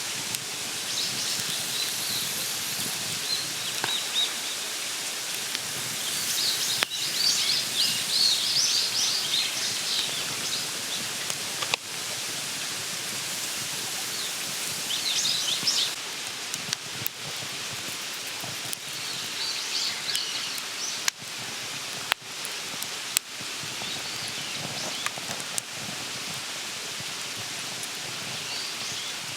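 Wild birds singing in bursts of quick, high chirping phrases over a steady hiss, with several sharp clicks in the second half.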